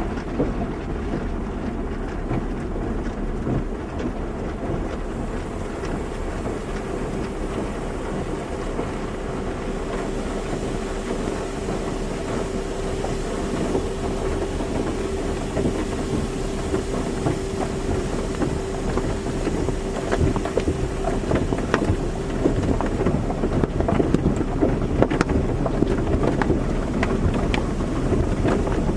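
Automatic car wash running: a steady rush of water spray and machinery, with a steady motor hum through the middle. Many small ticks and splashes pick up in the last few seconds.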